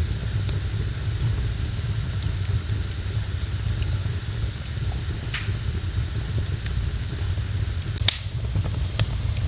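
Wood fire burning in a fireplace, with a few sharp crackling pops, the loudest near the end, over a steady low rumble.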